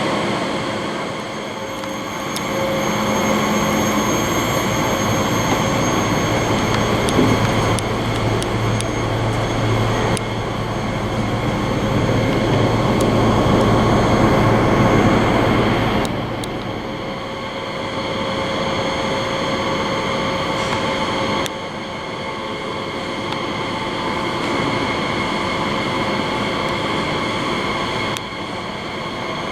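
Train sound: a steady rumble with a constant electric hum and whine over it and a few clicks, changing abruptly several times.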